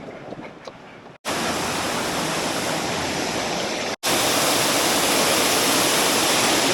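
Water rushing steadily down a waterfall on a stream, a loud even hiss. It starts abruptly about a second in, breaks off for an instant near the four-second mark, and resumes a little louder.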